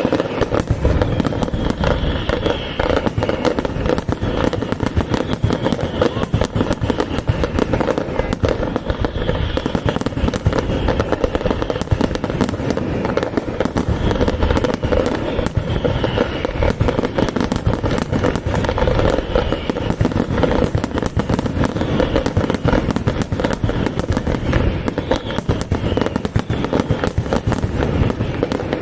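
Fireworks display in full barrage: a dense, unbroken run of bangs and crackles, many per second, with no let-up.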